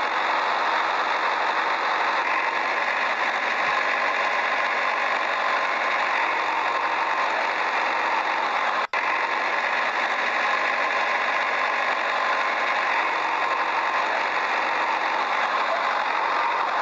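Steady engine-like running drone with no low rumble, unchanging throughout; it cuts out for an instant about nine seconds in.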